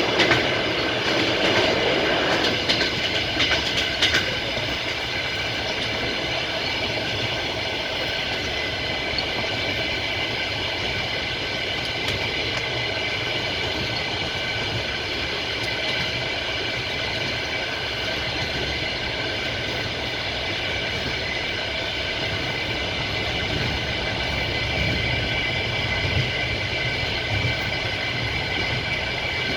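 Passenger train carriage running on the rails: steady rolling noise of the wheels with a thin high ringing, and a few sharp wheel clicks over rail joints in the first few seconds.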